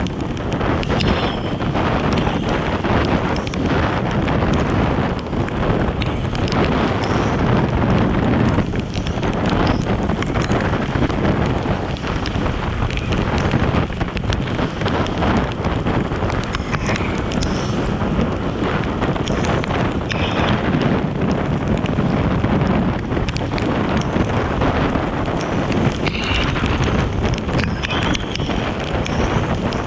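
Heavy wind buffeting the microphone on a ride in the rain, with steady vehicle and road noise underneath and scattered small ticks throughout.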